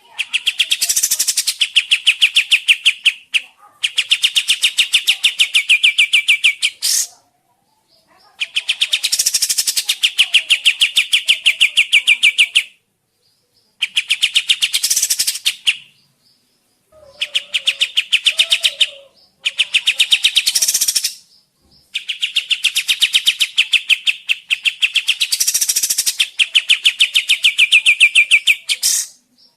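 A kapas tembak songbird singing in bouts of very rapid, rattling repeated notes. Each bout lasts a few seconds and ends in a short pause before the next, about seven in all.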